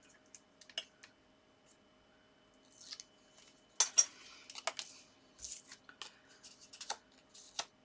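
Paper card and double-sided tape being handled on a table: a scatter of small clicks, taps and rustles, the loudest about four seconds in.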